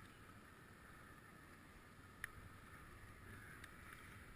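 Near silence: faint steady background noise, with one small click about two seconds in.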